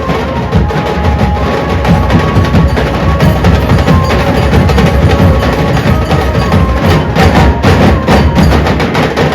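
Dhol ensemble drumming a fast, loud, driving beat in dense rapid strokes with deep bass hits, a few faint held melodic tones sounding over it.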